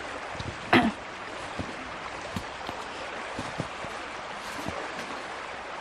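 River water flowing steadily, with one sharp knock just under a second in and a few faint clicks.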